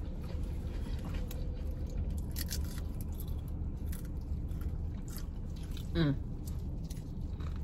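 Chewing and crunching of a sub sandwich and potato chips, with scattered crisp crunches over a steady low hum. About six seconds in there is a short vocal sound that falls in pitch.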